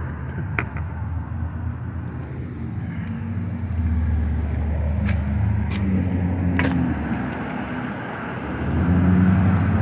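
A motor vehicle engine running nearby, a steady low hum that swells about four seconds in and again near the end, over street traffic noise, with a few light clicks.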